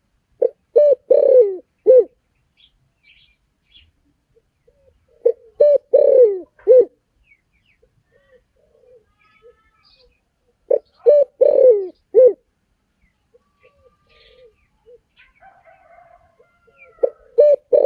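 Spotted dove cooing. Each phrase has two short coos, a longer falling coo and a short final coo, and it repeats about every five and a half seconds: three full phrases, with a fourth starting near the end. Faint chirps from other small birds come in between.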